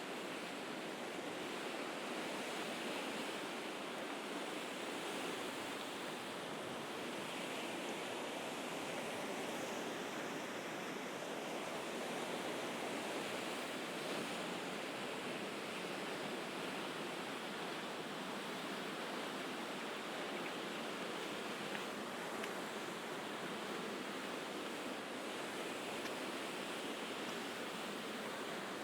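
Sea waves washing on the shore, a continuous rush that swells and eases slowly.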